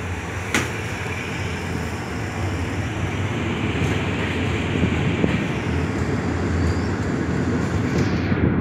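Steady rumble of a passenger train rolling slowly along a station platform, heard from inside a coach at an open window. One sharp click comes about half a second in, and the rumble swells a little toward the end.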